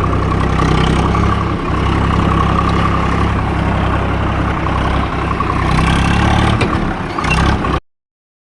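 Swaraj 744 FE tractor's three-cylinder diesel engine running steadily while pulling a trolley through mud. The sound cuts off suddenly near the end.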